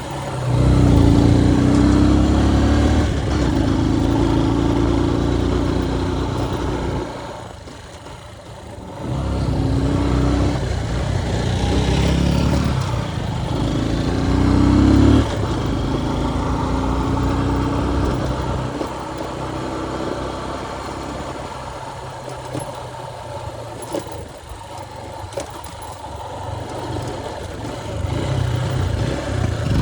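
Motorcycle engine being ridden hard, its pitch rising through the gears in several steps, easing off around seven seconds in and again about halfway, then running steadier and rising again near the end, with wind rushing over the microphone.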